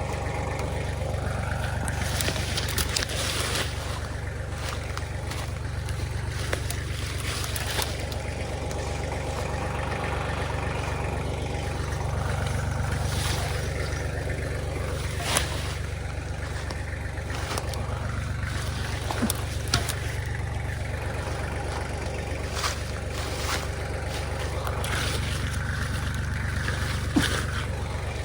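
Kubota machine's engine running steadily at a low, even pitch, with scattered sharp clicks and snaps, the loudest about halfway through and near the end.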